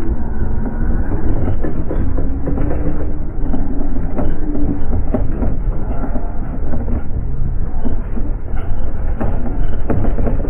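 A motor vehicle on the move: a steady low rumble with constant rattling and knocking, and an engine tone that rises a little, then holds.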